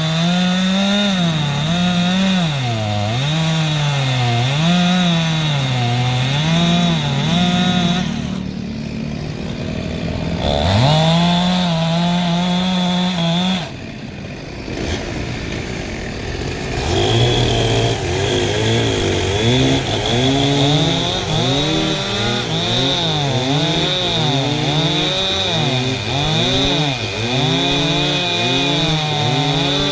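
Two-stroke chainsaw cutting wood. The engine note rises and sags over and over as the chain bites and bogs under load, drops briefly about halfway through, then picks up again.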